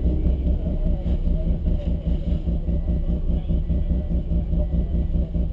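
A car engine idling, heard from inside the cabin: a steady low rumble with a rapid, even pulsing.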